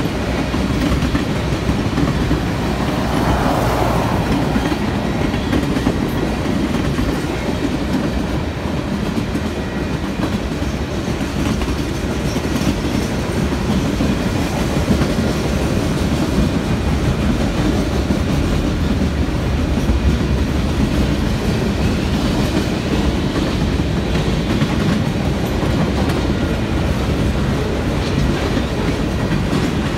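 Freight cars of a Union Pacific manifest train rolling past: a steady rumble of steel wheels on rail with a clickety-clack as the wheels cross the rail joints.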